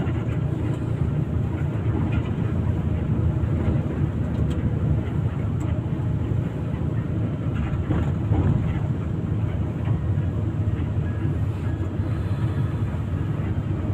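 Steady low rumble of an intercity bus under way, heard from inside the cabin: engine and road noise, with a few faint clicks.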